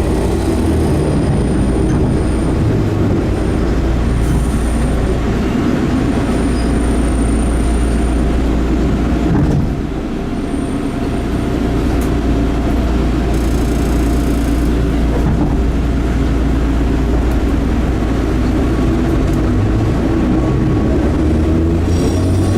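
Enshu Railway 30-series electric railcar running, heard from inside the car: a steady rumble of wheels on rail under a droning traction-motor hum, which rises in pitch near the end as the train speeds up.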